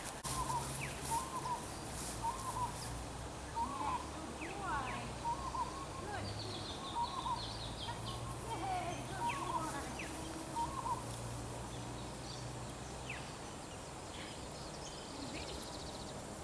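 Birds calling: a short curved call repeated about once a second for the first ten seconds or so, with higher chirps mixed in, fading out toward the end.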